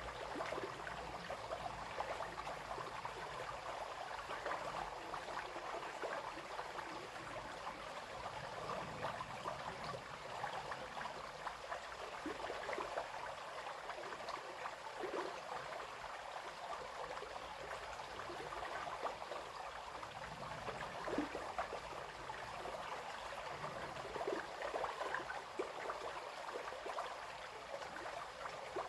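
Brook flowing steadily over stones, a continuous babbling and splashing of running water.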